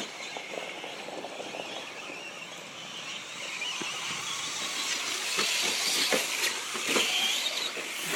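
Traxxas RC short course trucks racing: a steady hiss of small motors whining and tyres running, with a few short knocks. It gets louder about five seconds in.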